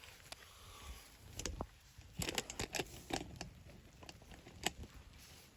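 Faint, scattered clicks and light rustling, as of small objects being handled, busiest in the middle and with one sharper click near the end.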